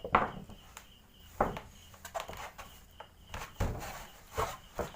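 Irregular footsteps crunching on the ground, about six steps, over a faint steady chirring of insects.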